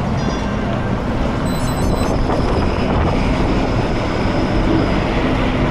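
Steady rush of wind and road noise from a bicycle ride, with a low hum of passing motor traffic underneath and a couple of brief faint high tones in the first two seconds.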